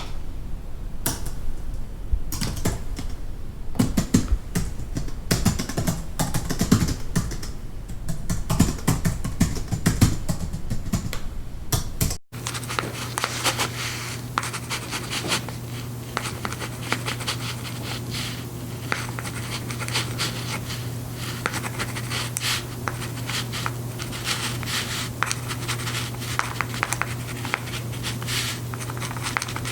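Fast typing on a computer keyboard, heard from a distance, a dense run of key clicks that stops abruptly about twelve seconds in. Then a pen writing on paper, short scratchy strokes over a steady low hum.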